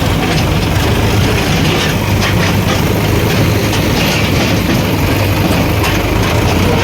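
Heavy diesel engine running steadily and loudly, with a rough clatter over its low drone.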